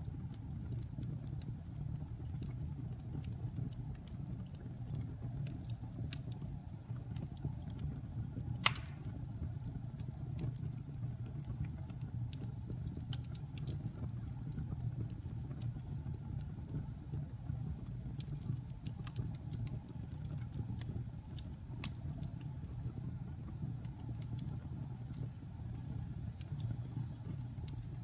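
Wood fire crackling in a fireplace: frequent small snaps and pops over a steady low rumble of burning, with one loud pop about nine seconds in.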